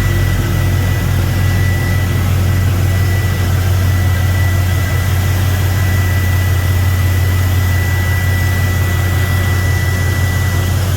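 Swapped-in 5.3-litre LS V8 idling steadily, a low even drone with a thin steady whine above it that fades near the end. The owner says this engine misfires at idle, which he puts down to a lack of fuel.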